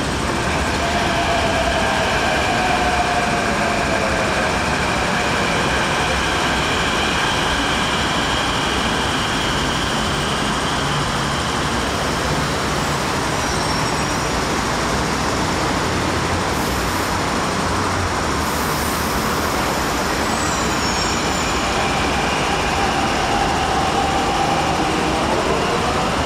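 MTR Kwun Tong Line C-Train running through the station past the platform screen doors: a loud, steady rumble of wheels on rail. An electric motor whine falls in pitch over the first few seconds and rises again near the end.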